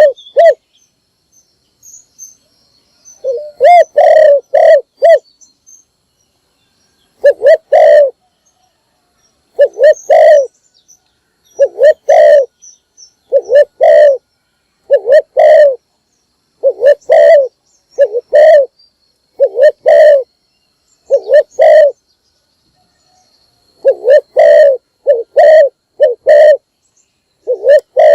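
Spotted dove cooing: groups of two to four low coo notes, phrase after phrase with short pauses between, starting after a gap of about three seconds. A faint thin high tone sits behind some of the phrases.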